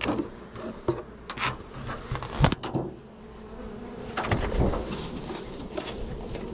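Honeybees buzzing steadily around an opened hive, with a few sharp knocks, the loudest about two and a half seconds in.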